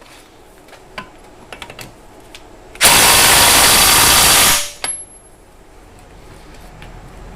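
A handheld power tool runs in one loud burst of about two seconds, starting about three seconds in, with light clicks and clinks of metal parts before and after.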